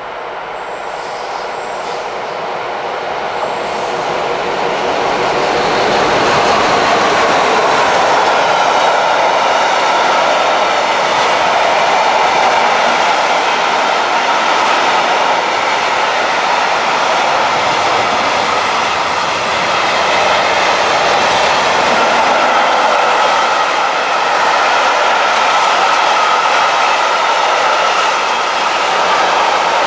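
Container freight train hauled by a class 140 electric locomotive, approaching and growing louder over the first several seconds, then its loaded container wagons rolling past with steady wheel-on-rail noise.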